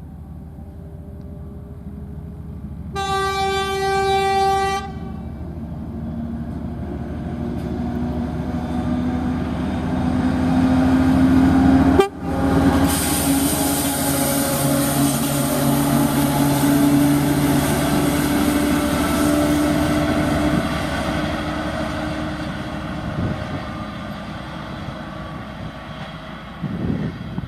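A TEP70BS diesel locomotive gives one horn blast of about two seconds, about three seconds in. Its 16-cylinder diesel engine then runs up with a rising note as it pulls away with the train. The train passes close with the engine note and loud rolling noise, then fades away.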